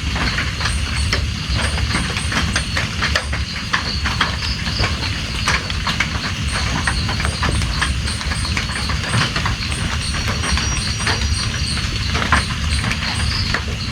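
Steady rain, with many drops tapping irregularly over a low rumble. A faint high chirp repeats about three times a second through much of it.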